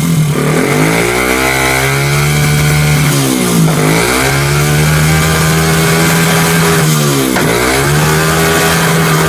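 Small 125 cc buggy engine running. Its pitch holds steady, then drops sharply and climbs back twice, about three and seven seconds in.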